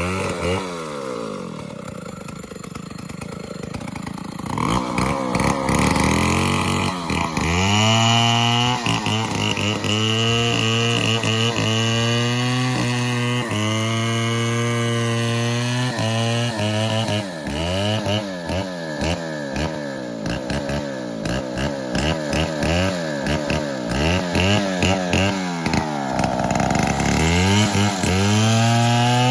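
Stihl MS 070 two-stroke chainsaw revving up and down repeatedly while cutting the felling notch into a dead teak trunk. It runs slower in the first few seconds and dips again briefly near the end before revving back up.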